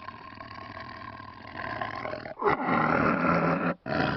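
Tiger roaring: a quieter rumbling stretch, then a loud roar about two and a half seconds in, and another roar starting just before the end.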